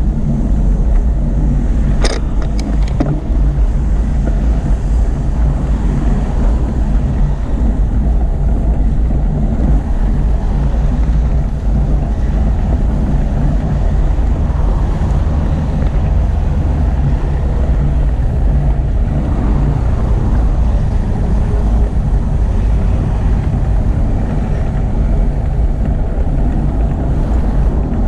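Steady low rumble of wind on the microphone and road traffic, heard while riding a bicycle, with a single sharp click about two seconds in.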